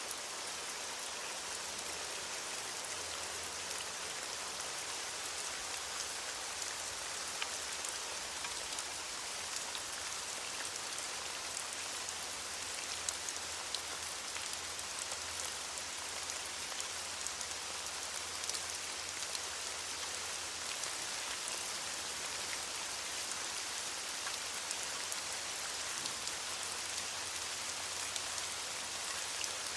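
Steady rain falling on leaves, a dense even hiss with many small drop patters.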